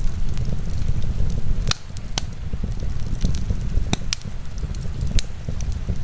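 Wood fire crackling, with a handful of sharp pops scattered through, over a steady low rumble and hiss of heavy rain.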